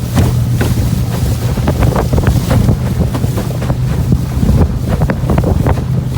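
Small fiberglass boat under way on a test run, its engine running with a steady low hum, heavily buffeted by wind on the microphone.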